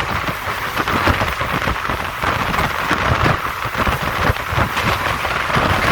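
Passenger train running at speed, heard from inside the carriage: a loud, steady rush of wind and rail noise with rumble underneath.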